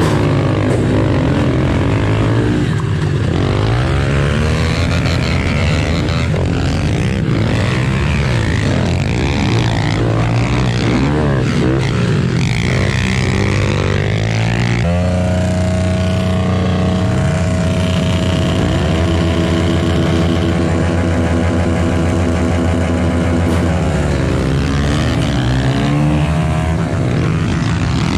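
Pit bike engines running and revving, with rising and falling engine pitch in the first half and a steadier drone from about halfway through.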